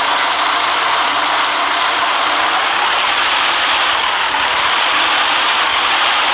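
City bus running, heard from inside: a steady, even engine and road noise with no change in pace.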